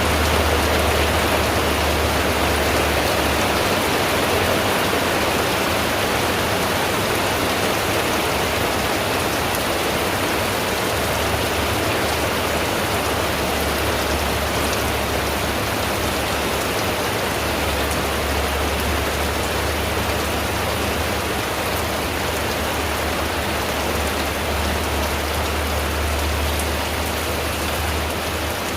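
Rain falling on a tin roof: a dense, steady hiss of drops, with a low rumble that swells and fades every few seconds.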